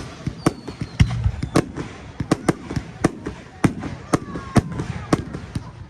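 Fireworks display: a rapid, irregular string of sharp bangs and cracks from bursting shells, about three a second.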